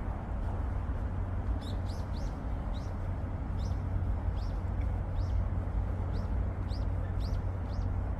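A songbird chirping a series of short, high notes that each fall in pitch, about two a second, over a steady low rumble.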